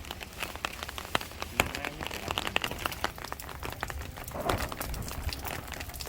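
Rain falling, with many separate drops striking a hard surface as irregular sharp taps.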